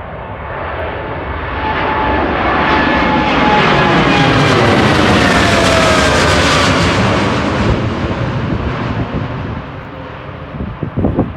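Airliner's jet engines passing by: the noise swells to a peak and fades again over several seconds, with whining tones that fall in pitch as it goes past.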